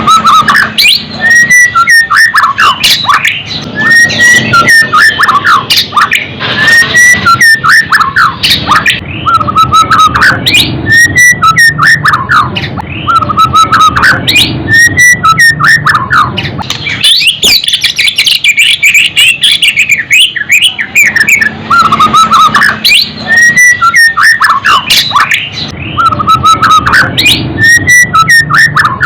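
White-rumped shama (murai batu) singing loud, varied phrases of whistles and chirps without a break, one whistled motif coming back every couple of seconds.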